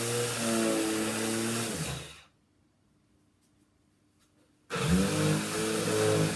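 Electric power sander running with a steady hum and hiss, switched off about two seconds in and winding down to near silence with a few faint clicks, then switched back on about two seconds later, spinning up and running again.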